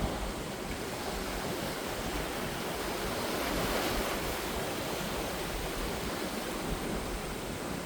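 Ocean surf washing onto the shore: a steady rush of breaking waves that swells a little about halfway through.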